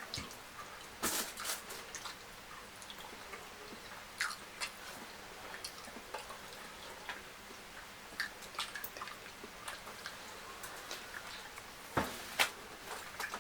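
Close-miked eating sounds: a person chewing fried fish and fufu, with scattered wet mouth clicks and smacks and a few louder clicks about a second in and near the end.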